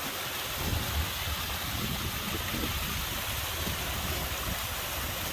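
Steady rushing of a stream and waterfall running close by, with an uneven low rumble underneath from about half a second in.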